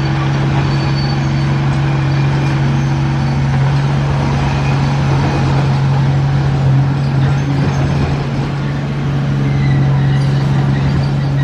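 Komatsu D31P bulldozer's diesel engine running steadily, a constant low drone over mechanical clatter.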